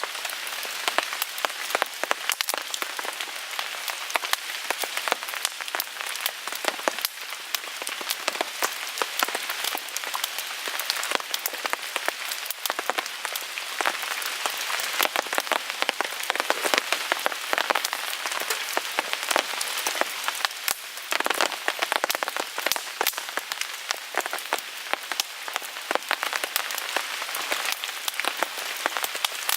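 Steady rain falling on a tarp overhead, a dense scatter of sharp ticks over an even hiss, along with a small wood fire burning in a Picogrill 398 folding fire pit.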